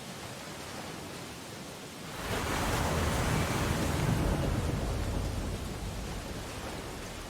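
Ocean waves on a beach: a steady wash of surf, then about two seconds in a wave breaks with a low rumble and slowly washes out.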